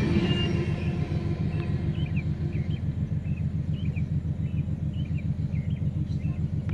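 The tail end of a Norfolk Southern grain train's hopper cars rumbling past and fading within the first second. After that comes a low, evenly pulsing rumble of an idling car engine heard from inside the car, with birds chirping over it.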